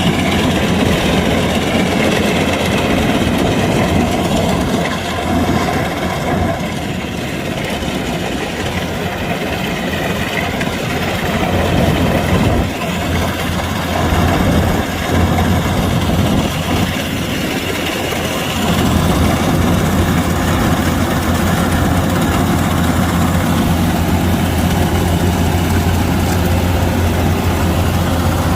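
Kubota DC-105X combine harvester's diesel engine running steadily under load, dipping somewhat in level for a few seconds early on and picking up again a little after the middle.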